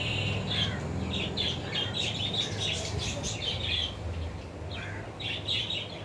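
Small birds chirping, many quick high notes in a run, over a low steady hum.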